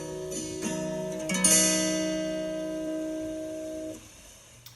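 Acoustic guitar strumming the closing chords of a worship song, the last and loudest chord about a second and a half in, left ringing until the sound cuts off suddenly about four seconds in.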